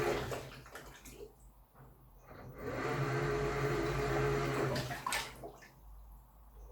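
Samsung Wobble 14 kg top-loading washing machine in its wash cycle: the motor hums while the pulsator churns the water and comforter in runs of a couple of seconds, stopping briefly in between. One run ends about half a second in, the next goes from about three to five seconds in.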